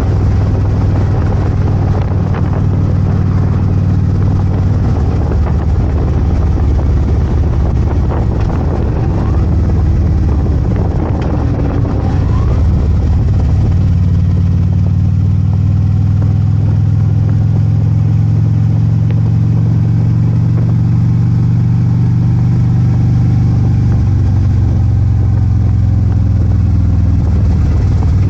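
Harley-Davidson Ultra Limited's V-twin engine running on the road. The sound is rougher and noisier for the first dozen seconds or so, then settles into a steady even note.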